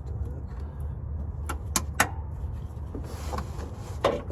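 Hand tools and metal parts being handled: a few sharp clicks and clinks, with a short scraping rustle about three seconds in, over a steady low rumble.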